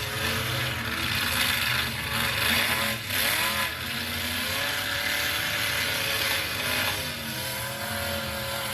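Several demolition derby trucks' engines running hard and revving, their pitch rising and falling as they accelerate and back off.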